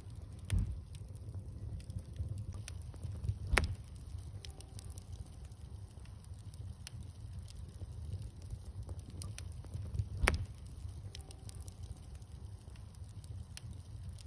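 Wood bonfire crackling: scattered sharp pops and ticks, the loudest about half a second in, near four seconds in and about ten seconds in, over a low steady rumble.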